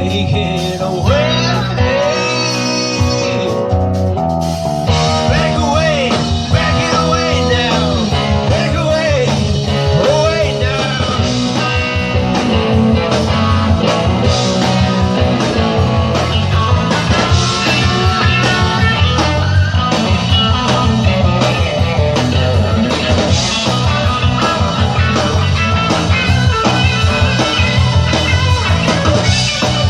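Rock band playing an instrumental passage in a blues-psychedelic style, with electric guitar bending notes over bass and drums.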